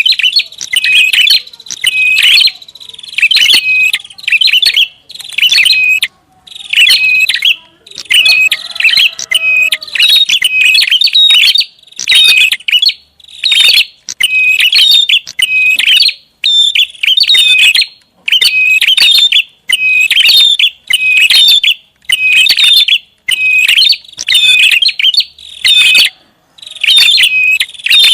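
Prinia (prenjak) calling loudly in rapid bursts of high, sharp chirps, about one burst a second with short gaps. It is a bird-lure recording of an agitated, noisy prinia.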